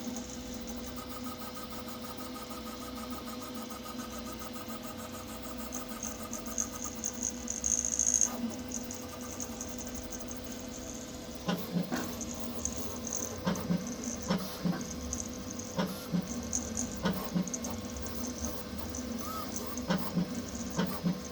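Sapphire Plus 3D printer running a print: stepper motors sing in changing tones under a steady hum. In the second half the sound turns into quick runs of short ticks and chirps as the head moves.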